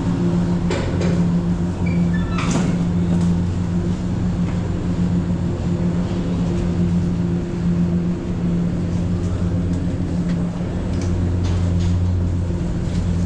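Passenger ferry's engine running with a steady low hum, heard on board, with a few short knocks, the clearest about two and a half seconds in.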